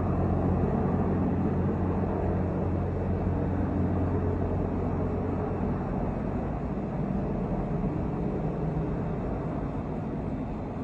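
Boeing AH-64 Apache helicopter flying past, a steady low rotor and engine drone that slowly fades over the second half as it moves away.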